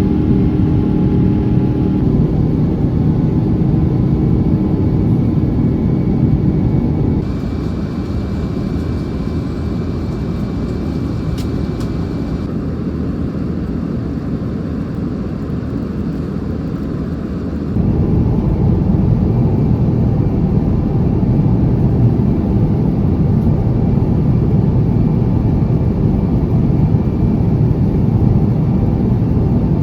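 Jet engine and airflow noise of an Airbus A350-900 heard inside the cabin: a steady, loud, low rumble that shifts abruptly in tone and level a few times, twice dropping and then rising again.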